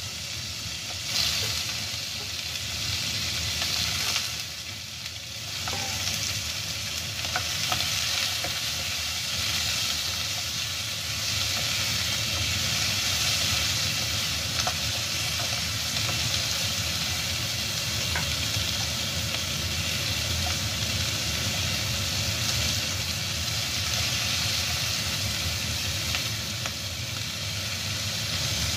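Pork spareribs sizzling in caramelized sugar in a wok, a steady hiss that grows fuller after about five seconds. A few light knocks of the spatula and tongs against the pan come as the ribs are stirred and turned.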